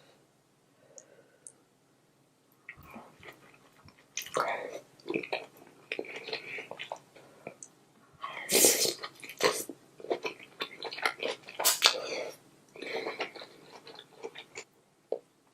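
Close-miked eating of king crab: chewing and wet mouth sounds in irregular bursts. It is nearly quiet for the first couple of seconds, and the loudest bursts come about halfway through and again near twelve seconds in.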